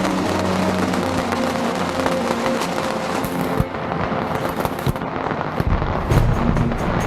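Rocket fortress of bottle rockets and firecrackers going off in a dense, continuous crackle of many small bangs and hissing rockets, heavier and deeper near the end.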